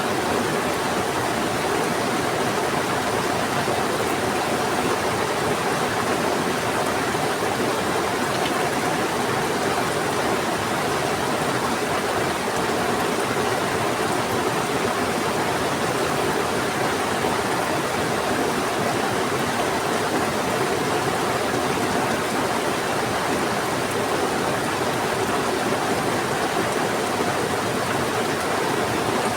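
Heavy rain falling together with a fast-flowing river, a steady, even rush of water with no breaks.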